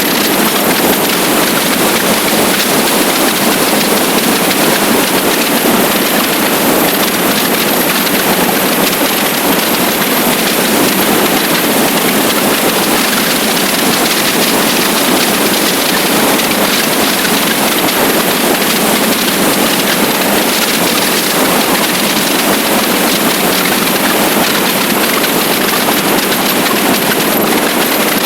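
Steady rush of wind and road noise on the microphone of a motorcycle riding at speed, unchanging throughout.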